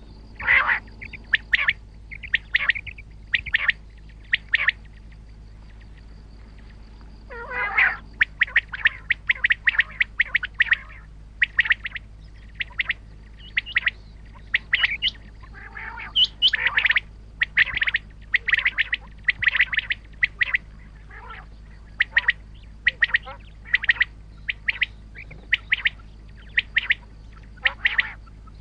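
Common quail calling: short, high, sharp notes repeated in quick runs of two or three, over and over, with a pause of about two seconds partway in and a lower, wavering call just before the calling resumes. A faint steady electrical hum and a thin high tone sit under the calls.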